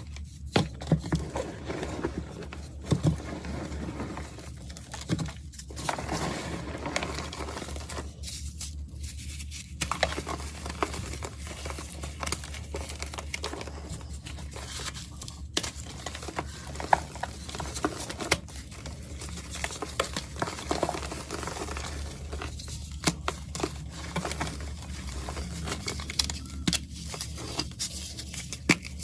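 A crunchy, dusty powder block being crushed and crumbled: dense, irregular crackling crunches with a few brief pauses.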